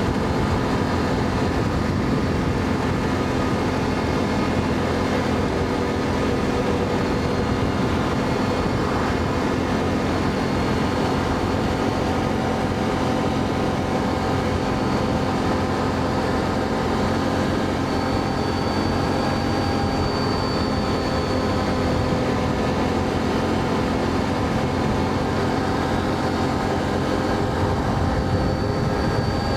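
ATV engine running at a steady speed while riding, a constant drone with a rough low rumble and no change in pitch.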